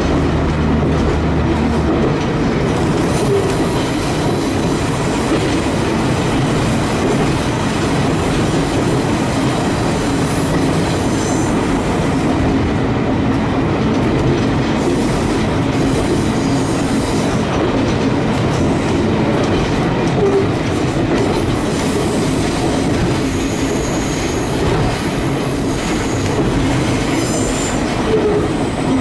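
A single-car diesel railcar running along the line, heard from inside the driver's cab: a steady drone of engine and wheels on the rails, with a low engine hum that drops away about two seconds in. Brief faint high wheel squeals come in a few times, mostly in the second half, as the train takes curves.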